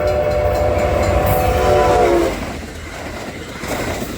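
Disneyland Railroad steam locomotive whistle: a long, loud blast that drops in pitch as it closes about two seconds in, followed by the rumble of the train running.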